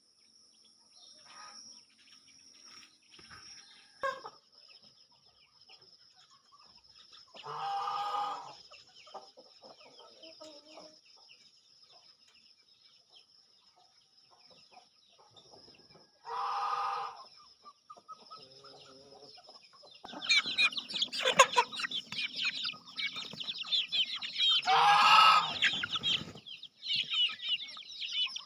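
Domestic chickens calling and clucking among chirping birds. There are a few separate calls early on, then a busy stretch of rapid chirps and clucks from about two-thirds of the way through. A steady high-pitched whine runs underneath.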